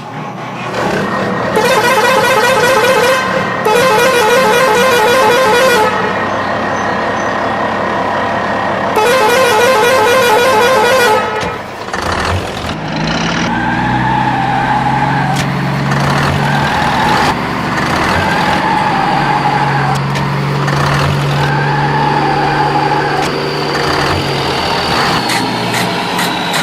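Truck horn blasts: two long, loud warbling honks, then a run of lower, shorter honks over a steady engine-like hum.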